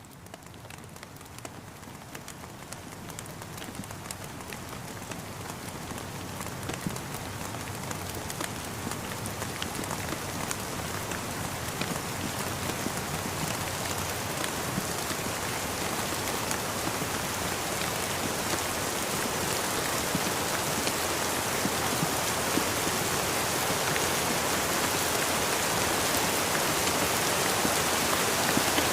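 Steady rain falling, with many individual drops tapping on a surface, growing gradually louder throughout.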